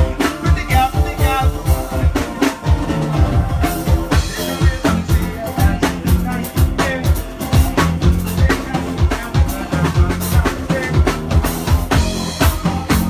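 Live band playing uptempo soca music, with the drum kit keeping a fast, steady beat over bass and other instruments.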